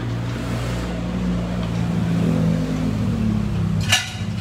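Car engine running, its pitch rising gently and then easing back, with a sharp metallic clink near the end.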